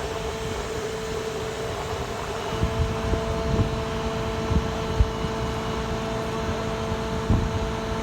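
Grapple saw truck's engine and hydraulic crane system running with a steady whine, with a few irregular low thumps starting about two and a half seconds in.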